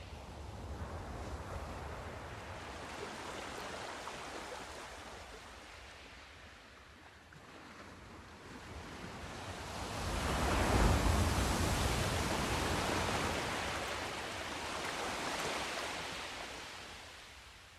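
Sea surf: waves breaking and washing in and out, rising and falling in swells, the loudest surge about eleven seconds in.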